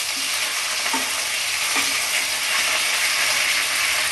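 Cauliflower, potato and pea curry sizzling steadily in hot mustard oil in a non-stick kadai while a wooden spatula stirs it, with a few soft scrapes against the pan. The spices are fried through, with the oil separating from the masala.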